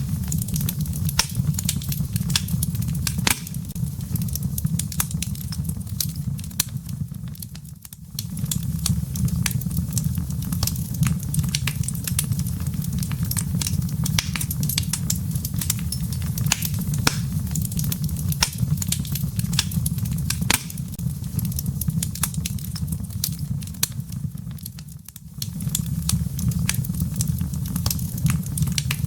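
Fireplace wood fire crackling: a steady low rumble of flame with frequent sharp pops and crackles from the burning wood and embers. The rumble drops away briefly twice, about 8 and 25 seconds in.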